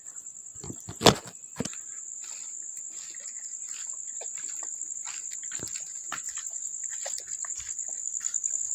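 Crickets chirring in a steady, high, pulsing trill, over the scuffing and crunching of footsteps as people walk. A single sharp knock stands out about a second in.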